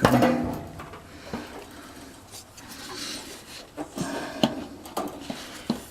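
Metal scraping and knocking as a gas water heater's burner assembly is worked back into the combustion chamber. A sharp knock with brief ringing comes at the start, then rubbing and a few lighter clicks.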